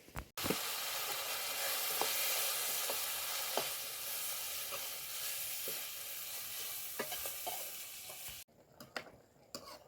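Food frying in hot oil in a pan: a steady sizzle with a few light taps of a stirring utensil against the pan. The sizzle starts suddenly just after the start and cuts off abruptly near the end.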